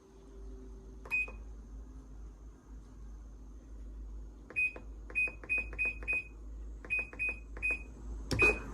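Small washing machine's control panel beeping: one short high beep about a second in, then a run of about ten quick beeps between four and a half and eight seconds in, over a steady low hum.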